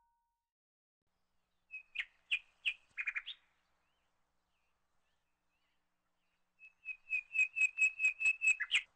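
A small bird chirping. A few short chirps come about two seconds in, then a quick, even run of about ten chirps on one pitch near the end.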